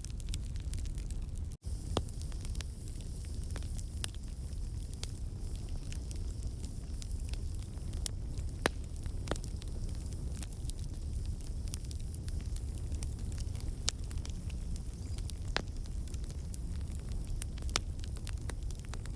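Wood campfire burning: a steady low rumble of the flames with scattered sharp crackles and pops from the burning logs. The sound drops out completely for an instant about a second and a half in.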